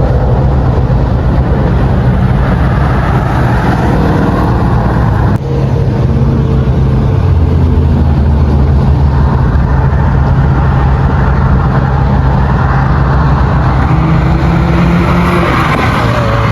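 Loud car engine running with a steady low drone, its pitch rising and falling slowly; the sound breaks off abruptly about five seconds in and carries on.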